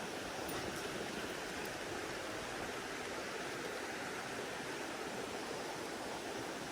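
Mountain stream water rushing steadily, with a few faint ticks about half a second and again nearly two seconds in.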